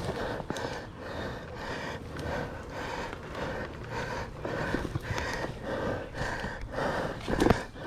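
A rider breathing hard and panting from exertion, with knocks and scrapes of the bike on the trail and one louder thump near the end.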